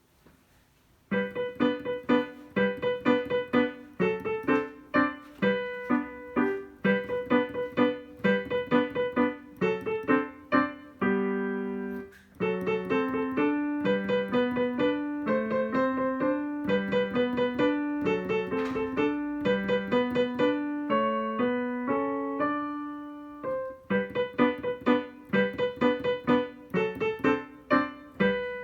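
Piano playing a beginner piece in quick short repeated staccato notes that imitate a woodpecker pecking, with a held chord about halfway and a smoother passage of moving notes before the repeated notes return.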